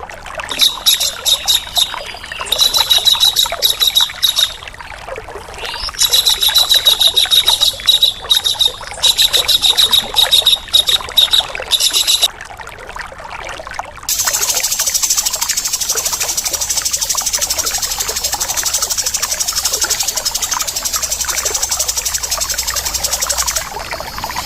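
Caged-bird training recording of a kingfisher (tengkek udang) and a grey-cheeked bulbul (cucak jenggot) giving harsh, rapid 'shooting' calls. Loud bursts of fast repeated high notes come in the first half, and after a short pause a continuous fast high rattle runs on. A steady hiss like running water sits underneath.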